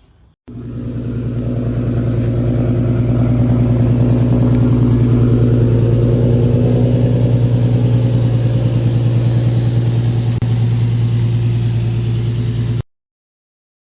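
Car engine running loud and steady at one unchanging pitch. It comes in suddenly about half a second in, builds briefly, then cuts off abruptly near the end.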